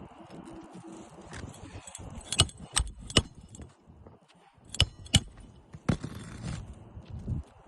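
Hammer driving roofing nails through a new asphalt shingle: three sharp, ringing metallic strikes about two seconds in, then two more about five seconds in.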